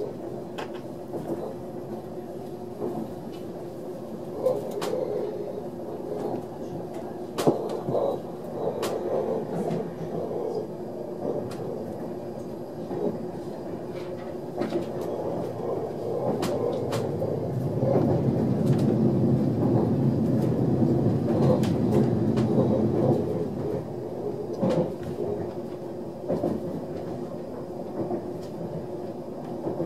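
Ride noise inside an ÖBB Railjet passenger coach running along the track: a steady rumble of wheels and bogies, with scattered clicks and knocks. The rumble grows louder and deeper about two-thirds of the way through, then settles again.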